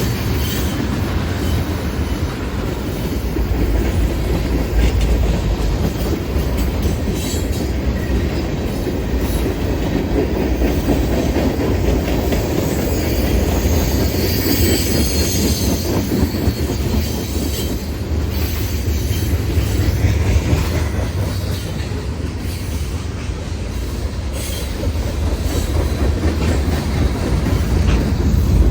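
Freight train rolling past close by: a steady rumble of railroad cars, with wheels clacking over rail joints and occasional wheel squeal.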